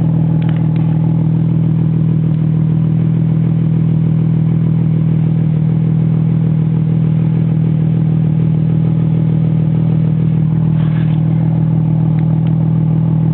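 Tuned Audi S4 running through a custom Borla exhaust, idling steadily at an even, unchanging pitch.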